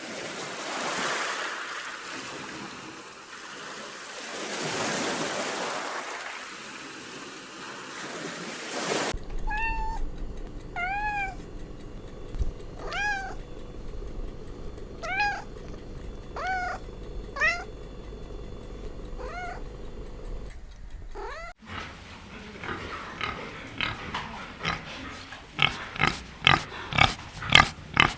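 Animal sounds from three separate clips: first two long breathy, noisy swells, then about seven short high calls that each rise and fall in pitch, spaced a second or two apart, then a quick run of sharp clicking calls that grow louder near the end.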